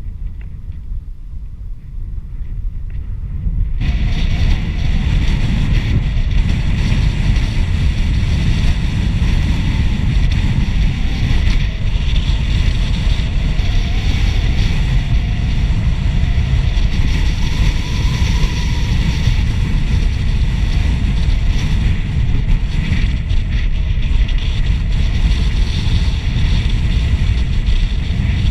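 Wind buffeting the microphone during a bicycle ride, a steady low rumble that grows much louder about four seconds in and stays loud.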